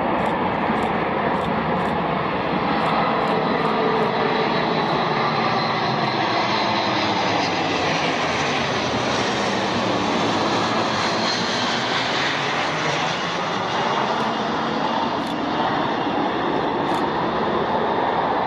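Boeing C-17 Globemaster III's four turbofan engines running with a loud, continuous jet roar. The sound grows brighter and hissier around the middle and then eases off again.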